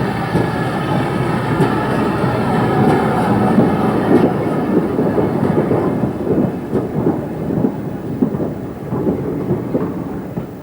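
A Great Western Manor-class steam locomotive and its train running past, a heavy rumble with clattering wheel and rail knocks. A high held tone sounds over the first half. The sound dies away near the end as the train recedes.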